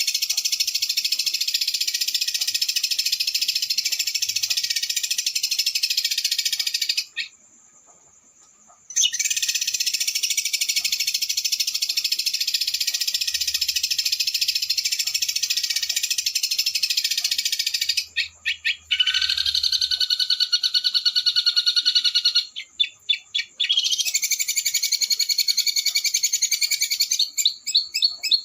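Recorded small songbirds giving fast, high-pitched rolling trills, a 'roll speed' masteran track of the kind played to teach white-rumped shamas (murai batu). The trill runs unbroken, stops for about two seconds a quarter of the way in, and in the last third turns into shorter, choppy runs of rapid notes with brief gaps.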